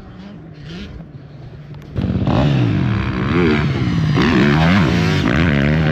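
Motocross dirt bike engine, faint at first, then suddenly loud about two seconds in as the bike comes close, revving up and down several times.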